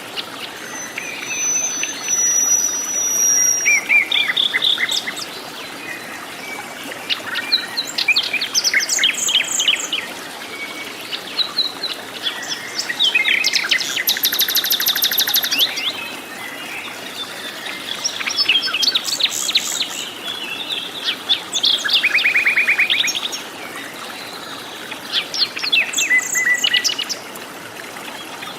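Several forest birds calling and singing over one another: short chirps, whistled notes and fast rattling trills. A long high trill comes about halfway through, and a lower rattle follows a few seconds later, all over a steady faint hiss.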